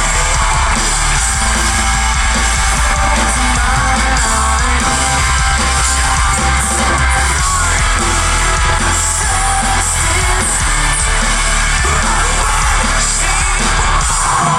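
Live metalcore band playing at full volume, heard through a phone-style audience recording: distorted electric guitars, heavy bass and drums, with a vocalist singing and screaming over them.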